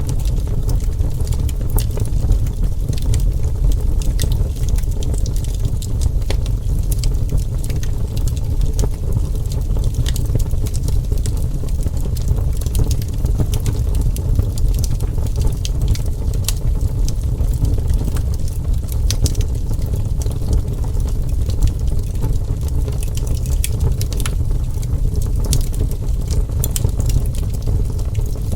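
Wood fire burning, with a steady low roar under many sharp, irregular crackles and pops of burning wood.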